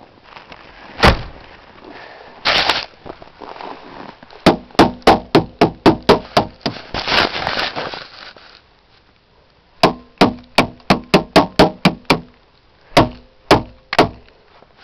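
Sharp knocks struck against a frozen car door to break it free of ice, in two quick runs of about three blows a second with a ringing tone from the door panel under each, then three single blows near the end. Short scraping bursts come between the runs.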